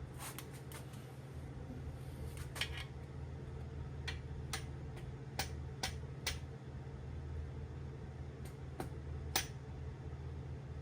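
Scattered light metal clicks and taps from hand tools and bolts being handled while main bearing caps are bolted onto an engine block, about a dozen irregular ticks over a steady low hum.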